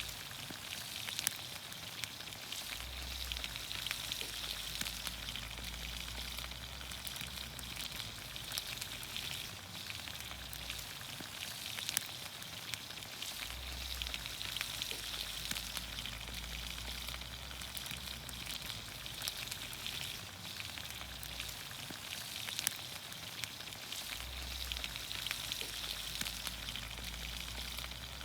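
Vegetables sizzling in olive oil in a pan over a campfire: a steady hiss with many small pops and crackles.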